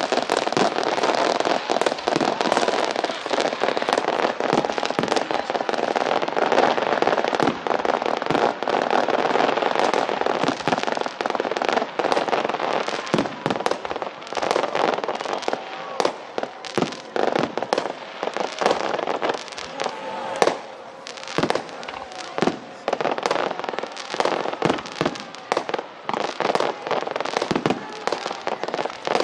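Fireworks going off: a dense run of bangs and crackling for roughly the first half, thinning out to separate, spaced bangs later on.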